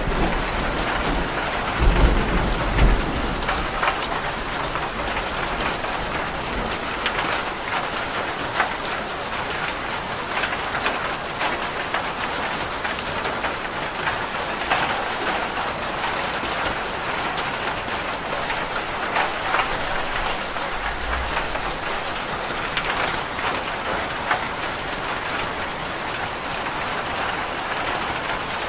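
Steady rain falling on a roof, with a dense patter of individual drops. Thunder rumbles low about two seconds in and again about twenty seconds in.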